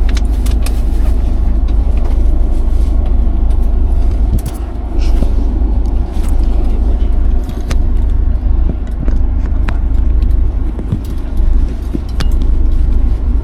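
Steady deep rumble inside a sleeper train carriage, with scattered clicks and rattles.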